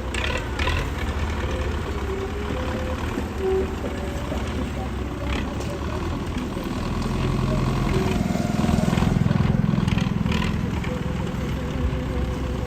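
Tractor's diesel engine running steadily as it pulls two loaded trailers, growing louder for a couple of seconds past the middle as it works harder. Voices can be heard over it.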